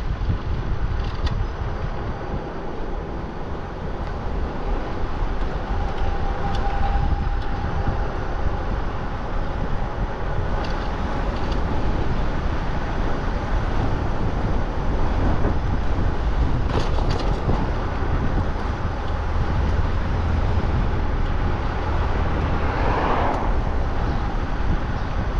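Wind buffeting the microphone over tyre and road rumble while riding an e-bike: a steady, loud rush with a faint steady whine underneath and a brief louder swell near the end.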